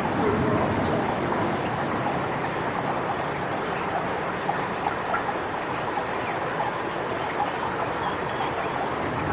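Strong wind rushing through coconut palm fronds, a steady noisy rush with a few faint small ticks.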